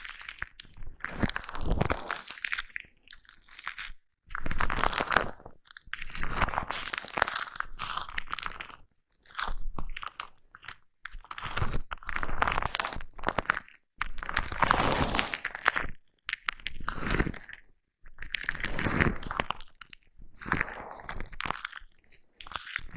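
Foam brush rubbed against a microphone up close, making crunchy scratching strokes of a second or two each, with short pauses between them.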